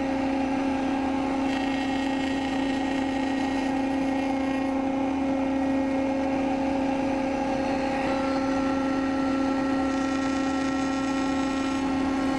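An electric motor, most likely a workshop power tool or its dust extraction, running steadily at one constant pitch with no change in speed.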